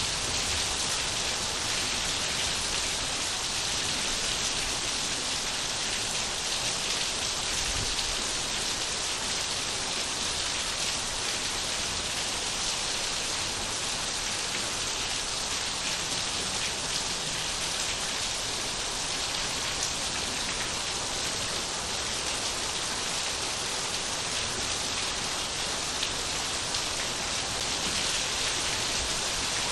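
Steady rain falling, an even hiss with fine drop patter on surfaces.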